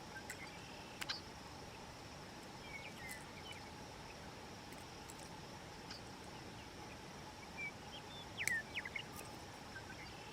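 Quiet outdoor ambience: a steady faint insect hum with scattered short bird chirps, around three seconds in and again near eight seconds. A few faint clicks come from handling the catch while unhooking it.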